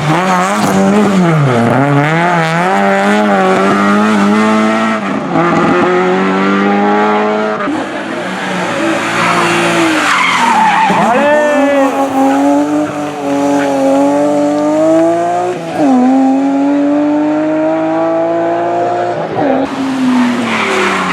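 Single-seater hillclimb race car engine at full throttle, its pitch climbing through each gear and dropping away sharply several times at gear changes and lifts for corners.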